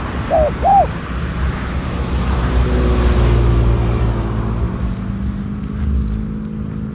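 A motor vehicle passes by: a low engine hum swells about three seconds in and fades away. Near the start there are two short cooing notes from a spotted dove.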